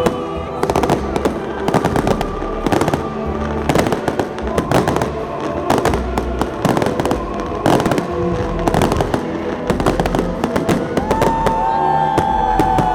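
Fireworks salute: many shells bursting in quick, irregular bangs, with music playing underneath.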